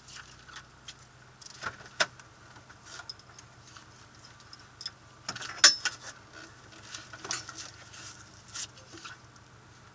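Rally car engine idling at a standstill, heard from inside the cabin, with scattered sharp clicks and small rattles, the loudest about five and a half seconds in.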